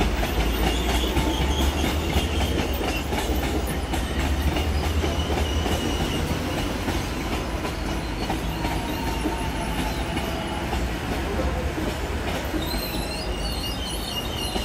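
Electric commuter train running along the tracks: a steady low rumble of wheels on rail with a thin, high wheel squeal, the rumble easing after about halfway. Near the end, wavering high-pitched tones join in.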